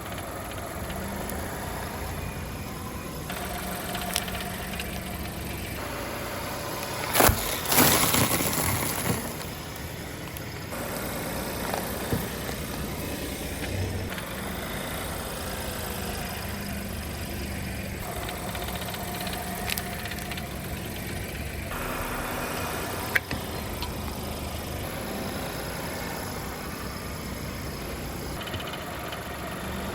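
Car engine idling while the car creeps slowly forward, in several short clips joined with abrupt cuts; a louder noisy crackle about seven seconds in and a few sharp clicks later.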